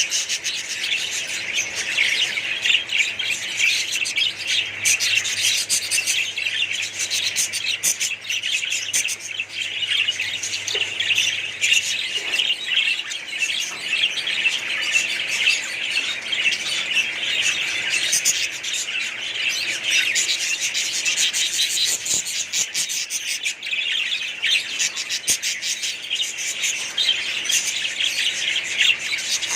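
Many small pet birds chirping and squawking over one another in a dense, unbroken chatter.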